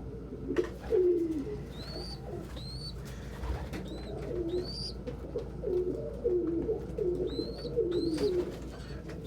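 Domestic pigeons cooing again and again in low, warbling phrases, with short high rising squeaks breaking in every second or so.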